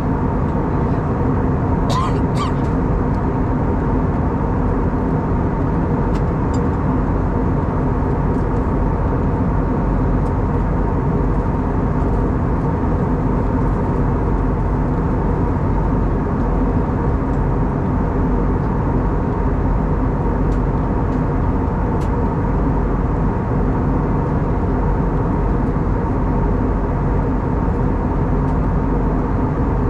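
Steady cabin noise of an Airbus A320neo in cruise: an even rush of airflow with a steady engine hum from its CFM LEAP-1A engines. A few light clicks come through, the clearest about two seconds in.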